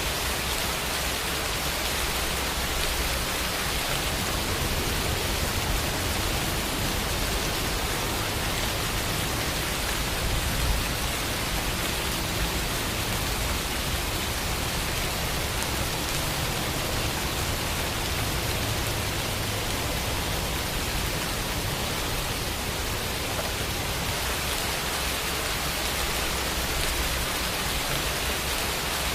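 Steady rain falling, an even hiss of drops without thunder, wind gusts or other sounds.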